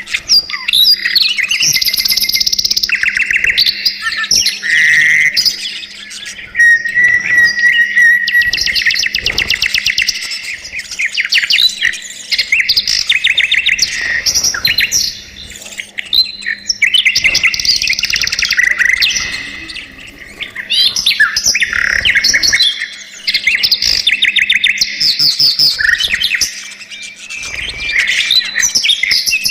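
Budgerigars chirping and warbling in fast, busy chatter, with a few short lulls, over a faint steady hum.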